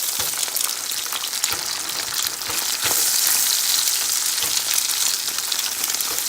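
Food sizzling and crackling in hot bacon fat in a frying pan, with scattered sharp pops and clicks; the sizzle swells somewhat about halfway through.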